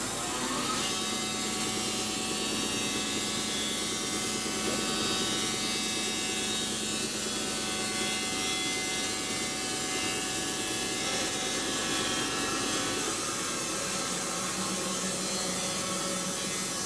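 Wood-Mizer band sawmill running steadily as its blade saws through a pine log, a machine whine made of several steady tones that ease off somewhat about two-thirds of the way through.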